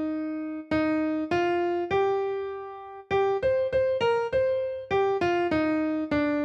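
Piano playing the melody of a minor-key folk round, one note at a time, about a dozen notes each struck cleanly and left to fade.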